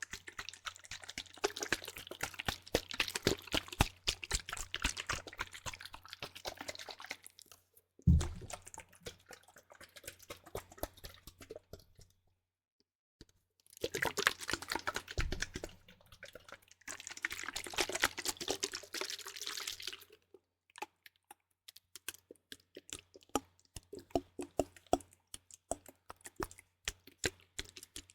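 Liquid sloshing in a bottle as it is shaken, a deeper shaking sound from a fuller bottle, in two long rapid spells with a pause between. There is a single low thump about eight seconds in, and scattered light taps and clicks near the end.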